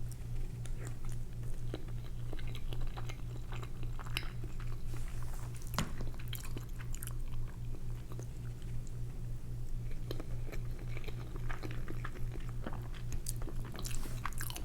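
A person chewing food close to the microphone, with wet smacks and small clicks scattered throughout. A steady, evenly pulsing low hum runs underneath.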